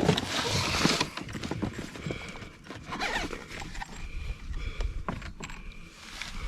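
Rustling and scattered light knocks and clacks of gear being handled in a canoe. The rustling is loudest in the first second.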